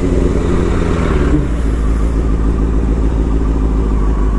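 Motorcycle engine running under way, with a steady low rumble and rushing wind noise on the helmet-mounted microphone.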